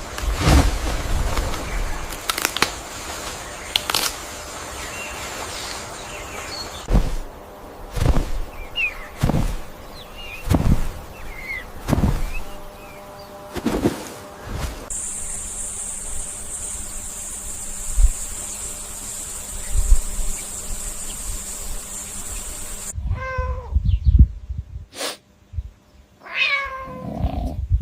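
A domestic cat meowing several times, the calls clearest near the end, each falling in pitch. Repeated thumps and knocks come through the first half, and a steady high hiss runs for several seconds in the middle.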